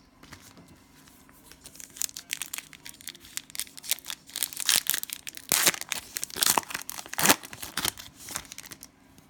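Cellophane wrapper of a Panini Prizm Cello trading-card pack being torn open and crinkled, a run of crackling rips, loudest past the middle.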